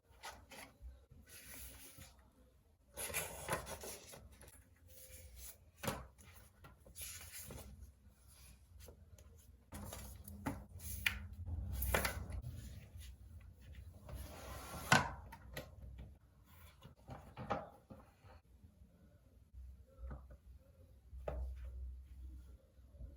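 Hands handling and unpacking an Apple Smart Keyboard Folio and its box: irregular rubbing and sliding with light taps and clicks, the sharpest tap coming about two-thirds of the way through.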